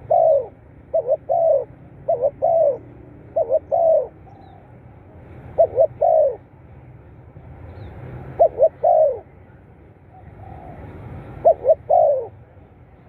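Spotted dove cooing: about seven phrases, each two short coos followed by a longer falling coo. The phrases come about a second apart at first, then with gaps of two to three seconds.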